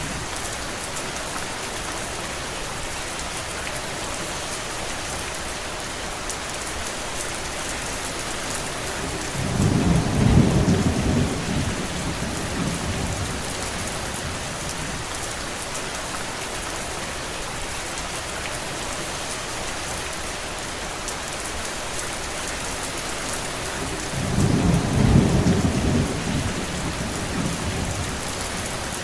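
Steady rain, with two low rumbles rising out of it, one about ten seconds in and one near the end, each lasting two to three seconds.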